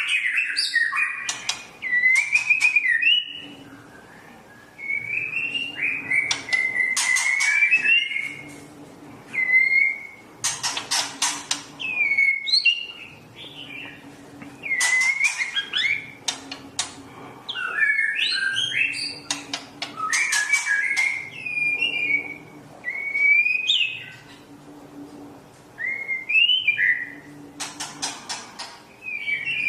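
A songbird singing: varied phrases of quick whistled notes gliding up and down, broken by bursts of rapid, harsh chattering clicks, with short pauses between phrases.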